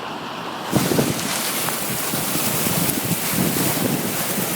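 Floodwater rushing across a road, with wind buffeting the microphone; the rushing gets suddenly louder about a second in and then holds steady.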